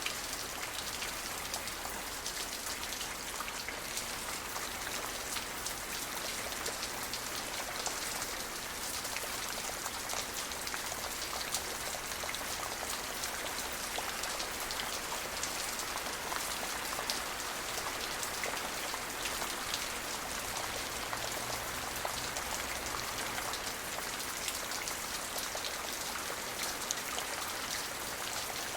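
Steady rain falling, with a dense patter of individual drops ticking on a surface over an even hiss.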